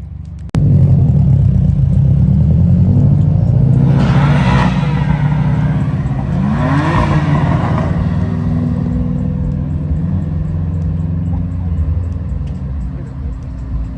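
Performance car engine and exhaust running loud, starting suddenly about half a second in, with two revs that swell and fall around four and seven seconds in.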